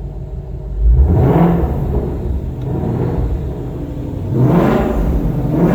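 2021 Ford Mustang Shelby GT500's supercharged 5.2-litre V8 revved twice from idle, with the exhaust set to track mode: a quick rise and fall about a second in, and another near the end.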